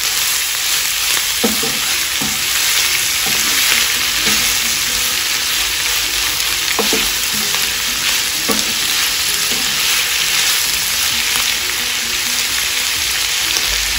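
Goat tripe and sliced onions sizzling steadily in hot mustard oil in a frying pan, stirred with a wooden spoon that knocks against the pan a few times.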